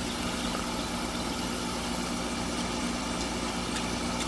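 A motor running steadily, a constant low hum with no change in speed.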